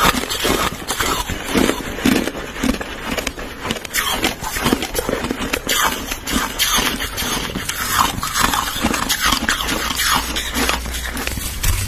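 Crushed ice being chewed close to the microphone: dense, rapid crunching that goes on without a break.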